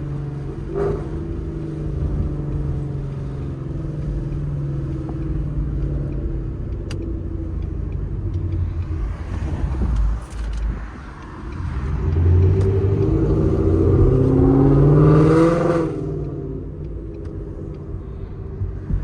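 Straight-piped Ford Mustang GT 5.0 V8 with long-tube headers cruising with a steady exhaust note. About twelve seconds in, the note climbs and gets louder as it accelerates hard for about four seconds, then drops suddenly as the throttle lifts.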